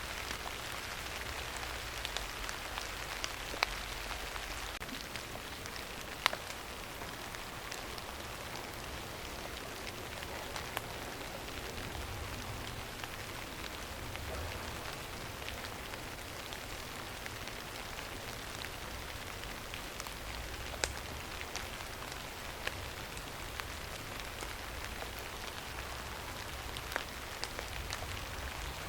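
Steady rain falling, an even hiss with scattered sharp drop ticks, a few of them standing out clearly.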